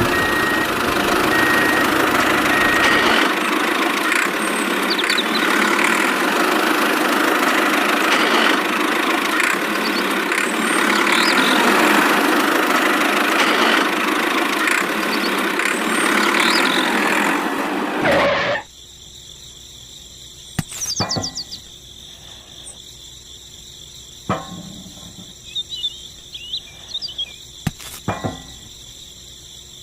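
A small motor runs with a steady whir, then cuts off suddenly about 18 seconds in. After it, insects chirp steadily, with a few sharp clicks and taps.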